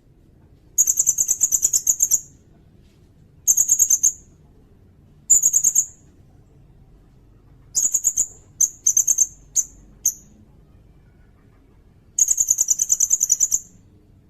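Sirindet bird singing: loud bursts of very high-pitched rapid trills, about ten notes a second, each lasting one to one and a half seconds, repeated with pauses, with a run of short clipped phrases near the middle.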